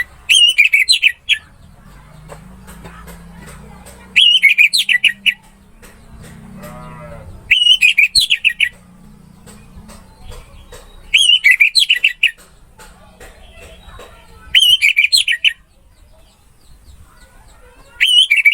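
Orange-headed thrush (anis merah) singing loud, quick warbled phrases of about a second each, one roughly every three and a half seconds, with a faint low hum between them.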